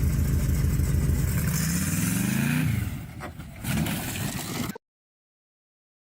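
An engine running and revving, its pitch rising for about a second and then dropping away, with hiss and clatter over it; the sound cuts off suddenly, followed by silence.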